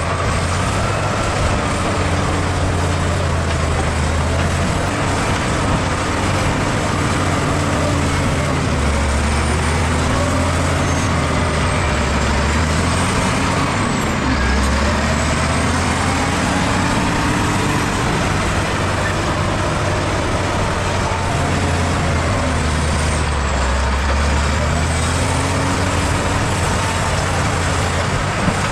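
Bulldozer's diesel engine working under load, its pitch rising and falling in slow sweeps every few seconds as it pushes soil, with a faint high whine rising and falling along with it.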